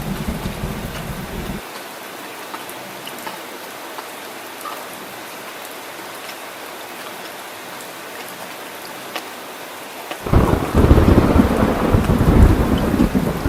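Heavy rain falling steadily with scattered drips, under a thunderstorm. A low thunder rumble cuts off about two seconds in, leaving only the rain, then a loud roll of thunder breaks in near the end and keeps rumbling.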